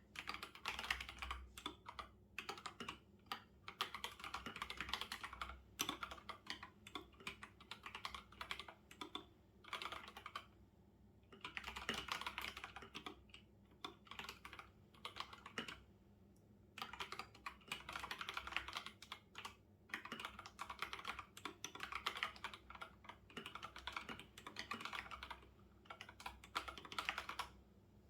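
Typing on a computer keyboard in quick bursts of keystrokes, with short pauses every few seconds.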